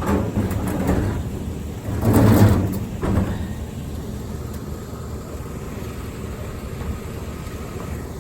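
A small metal file cabinet being shifted and slid by hand. There are a few knocks, then a loud scraping slide about two seconds in, then another knock, over a steady low rumble.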